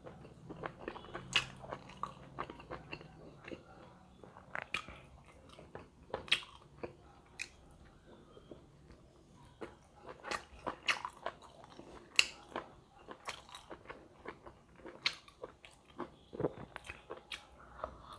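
A person chewing and biting into large pork momos (steamed dumplings), with many irregular sharp wet mouth clicks and smacks.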